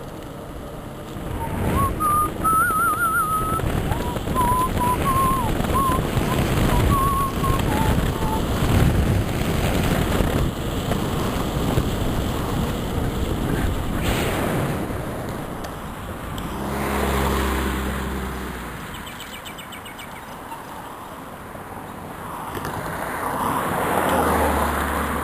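Wind rushing over the microphone of a moving bicycle. A wavering whistle is heard over it for the first several seconds.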